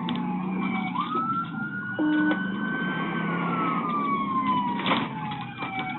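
Police siren wailing: its pitch jumps up about a second in, climbs slowly, then falls steadily before rising again near the end, over steady vehicle engine and road noise.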